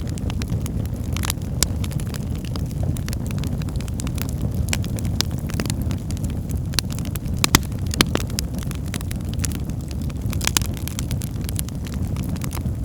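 Wood fire burning in a fireplace, a steady low rumble with frequent irregular crackles and pops, a few sharper pops a little past halfway.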